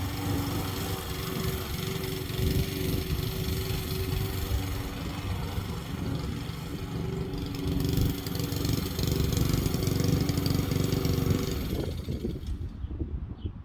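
Lawn mower engine running steadily, then shutting off near the end.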